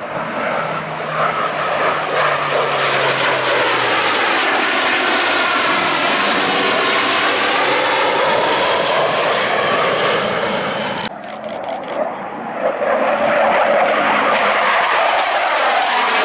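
Loud jet roar of CF-18 Hornet fighters making low passes over the field. It swells and fades, then cuts off sharply about eleven seconds in, and a second pass builds.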